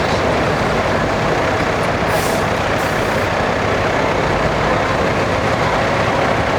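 A heavy truck engine running steadily, with two short hisses, typical of air brakes, about two seconds in.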